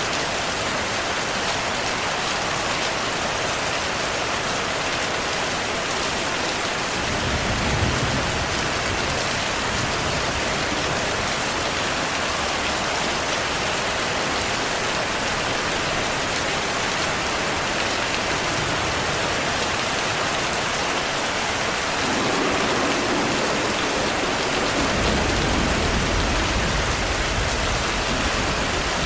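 Heavy, steady rain, with low rumbles of distant thunder about a quarter of the way in and again through the last part.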